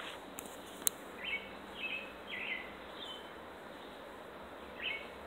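A bird calling in short chirps, about five of them spread over a few seconds, over a steady outdoor hiss. Two sharp clicks come in the first second.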